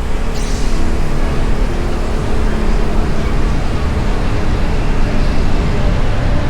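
Motorbike riding on a road in traffic: wind rushing over the microphone and the engine running steadily, with a brief high hiss about half a second in.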